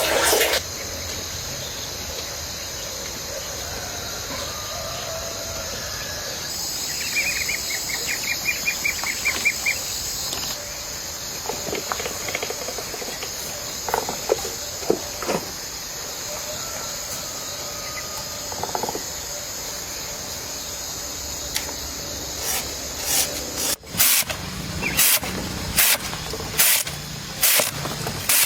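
Steady high-pitched insect drone in rural outdoor ambience, with a bird's fast trill about a quarter of the way in and a few short calls. Near the end comes a run of sharp knocks.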